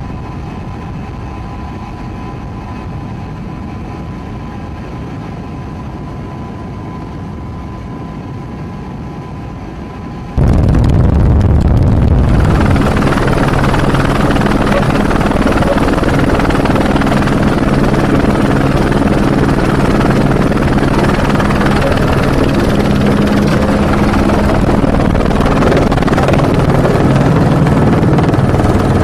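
Steady engine drone heard in two stretches. For about the first ten seconds it is a steady noise with a constant high whine. It then cuts abruptly to a much louder, steady engine drone with a low hum that holds to the end.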